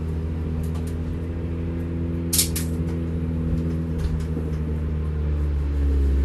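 Race car engine idling along at low revs, heard from inside the cabin while the car rolls slowly at about 12 mph. A pair of sharp clicks comes about two and a half seconds in, and the low rumble grows louder near the end.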